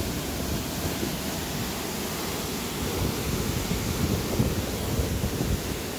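Steady rushing noise, with wind buffeting the microphone in low, uneven gusts.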